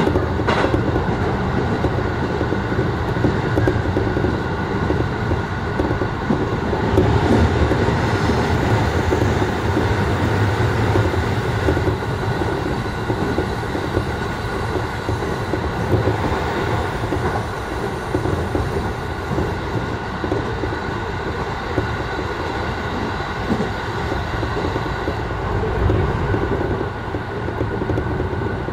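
Running noise of a JR Musashino Line electric train heard from on board at speed: a steady low rumble of wheels on rail with a faint clickety-clack.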